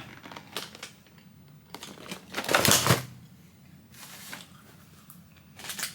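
A few short rustles of snack packaging being handled, the loudest about two and a half seconds in.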